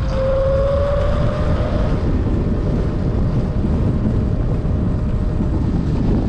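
Strong wind buffeting the microphone of a rider on a moving Sur-Ron X electric dirt bike, over the steady whine of its electric motor. The whine rises a little in pitch in the first second, then holds.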